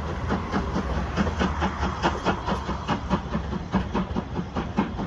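Passenger train running away down the line: rapid, regular clickety-clack of its coach wheels over the rail joints over a low rumble, fading slightly as it recedes.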